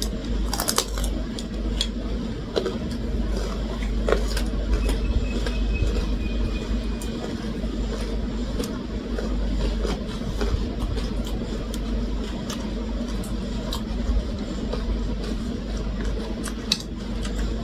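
A steady low rumble with occasional light clicks and clinks, a few of them sharper.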